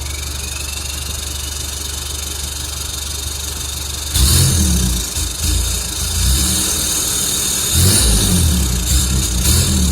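Ford 3.0 TDCi four-cylinder turbodiesel's exhaust, through a standard 57 mm pipe with only a small rear silencer, idling steadily, then revved sharply about four seconds in, easing briefly and revved again near eight seconds.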